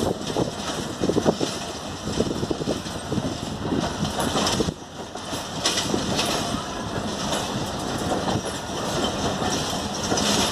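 Passenger coaches of a departing train rolling past at low speed, the wheels clacking irregularly over rail joints and points.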